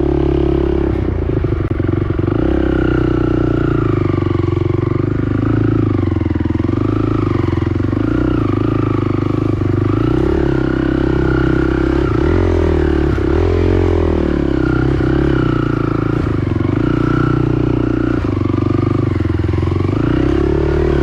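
Honda TRX450R ATV's single-cylinder four-stroke engine running under way, revs rising and falling steadily as it rides.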